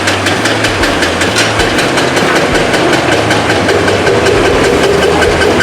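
Diesel engine of heavy construction machinery running steadily with a rapid, even clatter.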